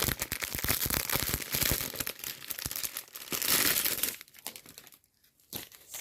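Plastic packaging crinkling and rustling as it is handled. It stops a little after four seconds in and starts again near the end.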